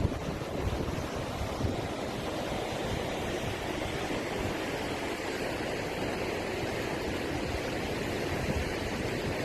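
Typhoon wind and rushing water: a steady rushing noise, with wind buffeting the microphone.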